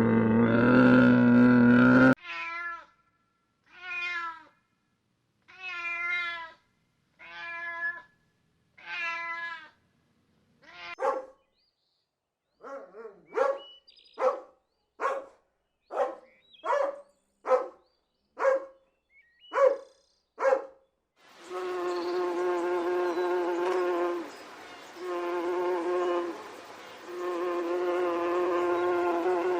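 A run of animal sound clips. A low call ends about two seconds in. Then a cat meows about six times, followed by about a dozen short, sharp calls. From about 21 seconds a steady insect buzz, like a fly's, runs on with a few short breaks.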